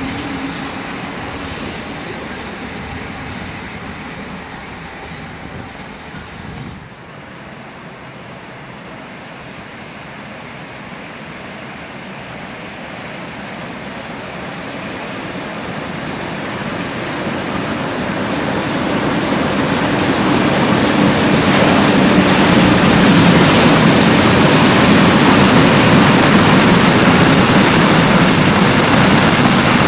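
A train's sound fades during the first seven seconds. Then a freight train of tank wagons approaches and passes close by, louder and louder, with a steady high-pitched wheel squeal over the rumble and clatter of the wagons.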